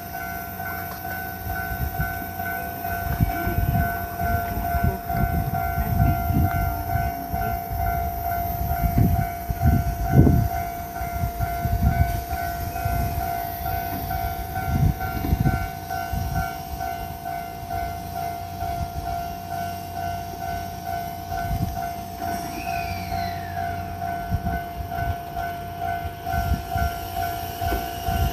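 Ichibata 7000 series electric train at a station platform, with a steady, rapidly repeating electronic ringing throughout, typical of a Japanese level-crossing warning bell. Uneven low rumbling is strongest in the first half.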